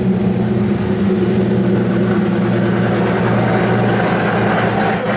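Bentley W12 engine idling steadily just after start-up with its exhaust removed behind the primary catalytic converters, a loud, even open-pipe drone.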